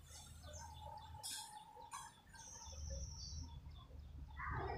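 Faint birds chirping in the background, with short high calls scattered throughout, over a low steady hum.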